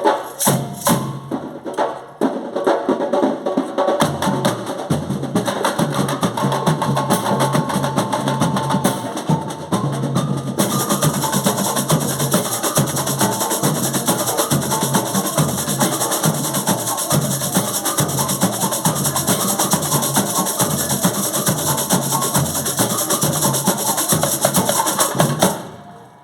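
A band rehearsing a song, with prominent percussion keeping a steady beat; the music stops shortly before the end.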